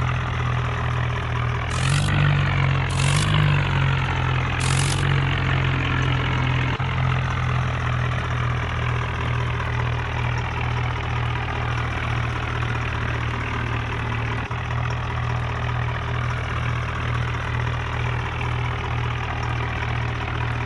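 Swaraj 963 tractor's diesel engine idling steadily, lifting briefly a couple of seconds in, with three short hissing bursts in the first five seconds.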